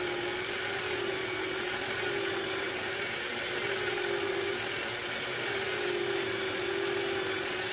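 Willard's Tipper cue-tip trimmer running with a steady hum while a layered cue tip is sanded on it, the tone wavering slightly as pressure on the tip changes.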